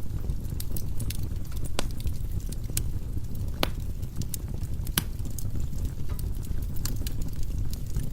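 Firewood burning in a fireplace: a steady low rumble of the flames with scattered crackles and a few sharper pops from the logs.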